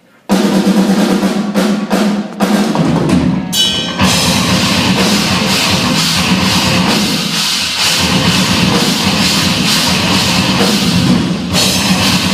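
A live band with a drum kit, bass drum and snare prominent, crashes in suddenly about a quarter second in and plays on loud and steady.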